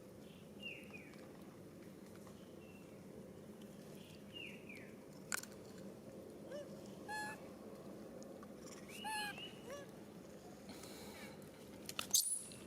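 A few short, pitched animal calls, spaced a few seconds apart, over a steady outdoor background, with a sharp click about five seconds in and a louder burst near the end.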